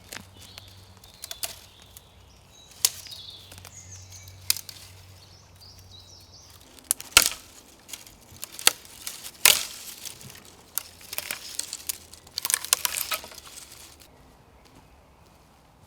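Dry pine twigs snapping and cracking as kindling is broken off and gathered, with rustling of dead wood between the snaps. The sharpest cracks fall in the middle, followed by a quick run of snaps near the end.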